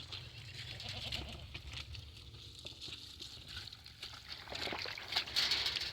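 A goat bleating faintly, once, about two seconds in, over a low steady rumble.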